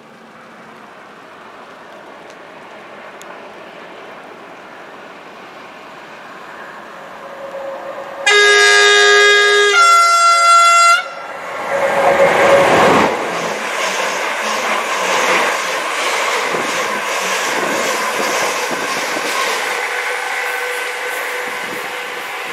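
Electric multiple unit approaching at speed, its running noise slowly growing, then sounding its two-tone horn, two notes of about a second and a half each, some eight seconds in. It then passes close by with a loud rush of wheels on rail that eases off slowly.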